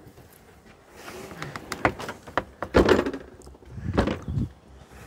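A few scattered knocks and thuds, the heaviest about three and four seconds in.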